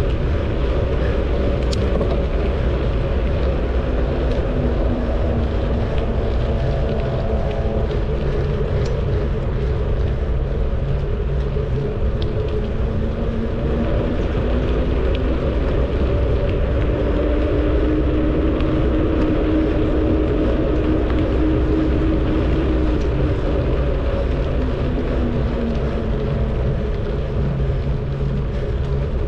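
Steady rushing wind noise on the microphone of a camera carried on a moving bicycle, mixed with tyre and road noise. A few faint whistling tones waver in and out.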